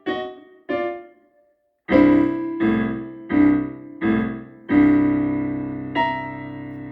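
Piano playing a boogie piece: two short chords, a pause of about a second, then a run of five chords, the last one held and ringing out, with one more note struck near the end.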